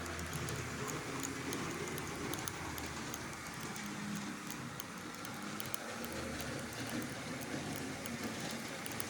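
Märklin H0 model train running along the layout's track: a steady rolling rattle, thick with small clicks from the wheels and pickup running over the rails. A low hum drops out soon after the start and comes back for a few seconds in the middle.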